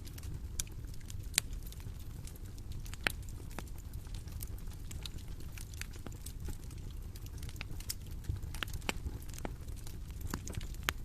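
Bonfire crackling: irregular sharp snaps and pops over a steady low rumble of burning wood, with a couple of louder pops in the first few seconds.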